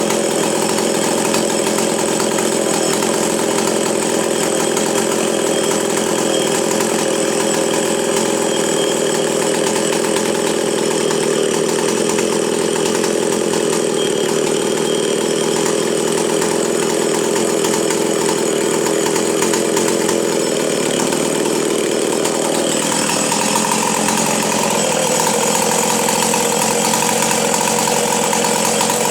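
Two-stroke chainsaw engine running steadily, its pitch shifting to a new steady note about 22 seconds in.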